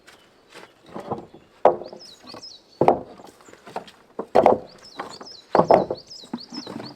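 About six heavy, irregular knocks, blows struck on wood or stone. A bird sings quick, high, repeated chirps over them.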